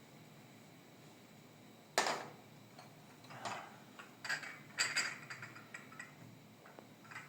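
Things being handled: one sharp knock about two seconds in, then a string of lighter clinks and clatters.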